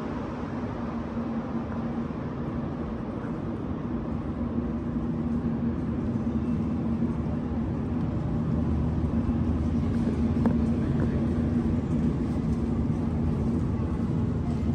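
Steady rumble of a running vehicle with a constant low hum, slowly getting louder.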